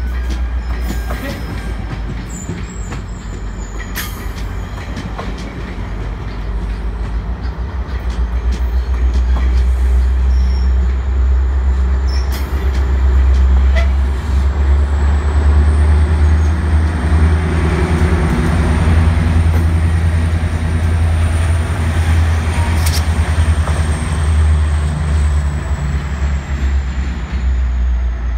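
GO Transit bilevel passenger coaches rolling past on the rails with a heavy, steady rumble that grows louder about a third of the way in. Occasional sharp clacks come from the running gear, and a thin high whine drifts slightly up and then down through the second half.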